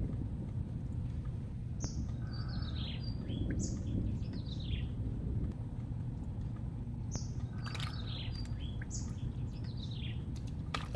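Birds calling in short notes that fall in pitch, repeated in small groups every second or two, over a steady low rumble.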